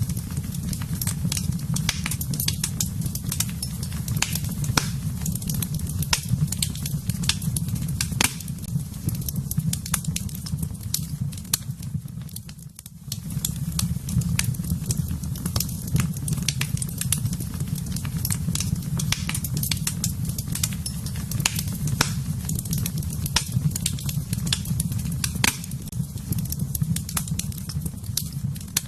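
Wood fire crackling in a fireplace: a steady low rush of burning with frequent sharp pops and snaps, dipping briefly just under halfway through.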